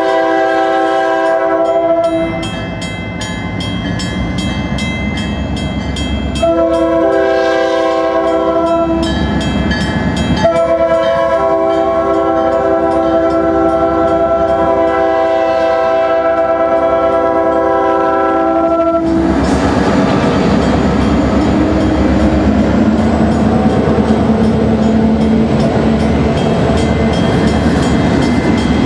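Lead locomotive of a freight train, EMD GP40-2 No. 308, sounding its multi-note air horn for a grade crossing: the end of one blast, then a shorter blast and a long one of about eight seconds. About nineteen seconds in the horn stops and the diesel locomotives pass close by, followed by freight cars rolling over the rails.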